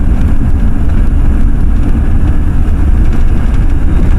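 Ford F-350 pickup truck running while driving, a steady low rumble of engine and road noise heard from inside the cab.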